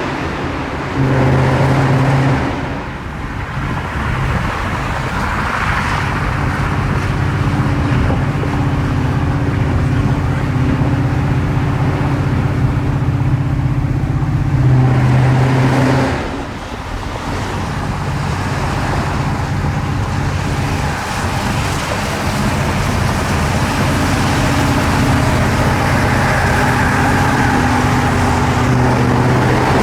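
2017 Ford Mustang GT's 5.0 L V8 running through aftermarket long-tube headers and exhaust, a steady deep note. It swells louder briefly about a second in and again about halfway through.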